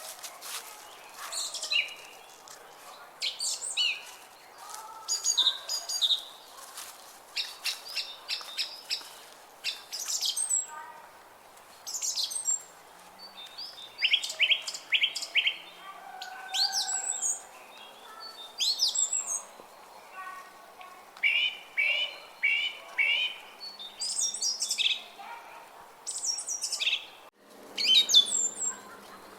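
Several songbirds singing and chirping together, overlapping short whistled phrases with quick trills of rapidly repeated notes.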